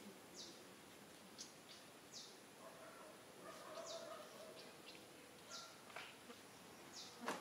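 Faint small birds chirping, with short, high chirps about once a second and a few lower, thin whistled notes. A single sharp click comes near the end.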